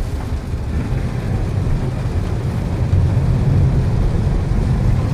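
Steady low rumble of a car driving on a rain-soaked road, heard from inside the cabin, with tyre and road noise; it grows a little louder about three seconds in.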